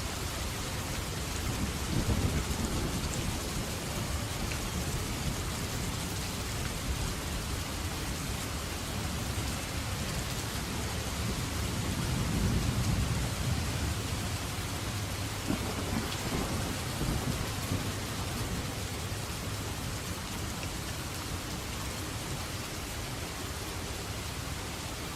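Steady heavy rain falling, with low rolling thunder rumbles building about two seconds in and again around twelve seconds.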